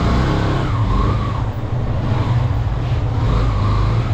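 Motor vehicle engines running in street traffic, with a steady low engine drone.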